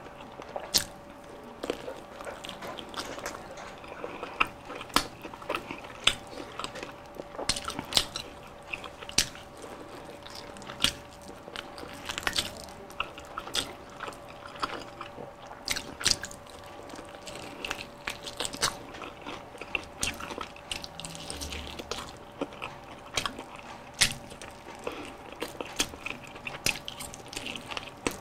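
Close-miked biting and chewing of crispy fried chicken dipped in gravy: irregular sharp crunches and crackles mixed with wet mouth sounds.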